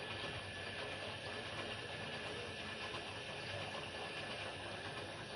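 Zanussi FL904NN front-loading washing machine running, a steady motor hum with a faint high whine.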